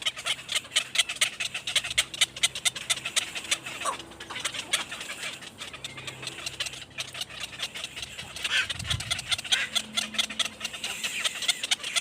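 Birds chirping in a rapid, continuous stream of short, high calls.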